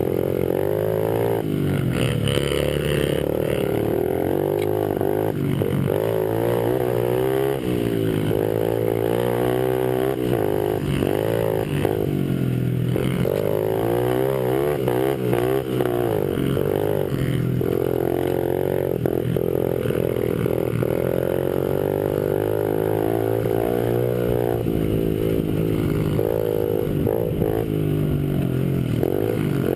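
Small Honda 50cc single-cylinder four-stroke pit bike engines running hard, their pitch rising and falling again and again as the throttle is worked and gears change.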